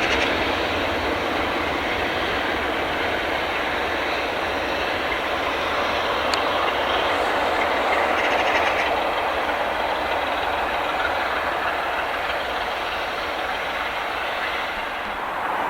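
A train running past, its wheels clattering steadily over the rail joints.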